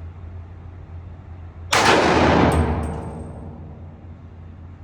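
A single gunshot a little under two seconds in, echoing and dying away over about two seconds, followed by a faint metallic tinkle, likely spent brass.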